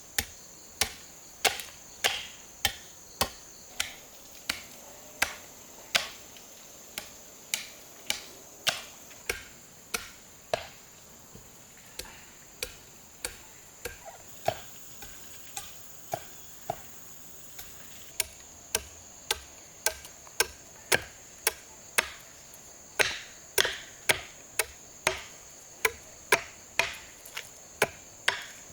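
A hand tool striking over and over with sharp blows, about one and a half a second, with a short pause about midway. A steady high insect drone runs underneath.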